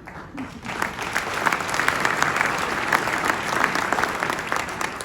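Audience applauding in a large hall, rising within the first second and fading toward the end.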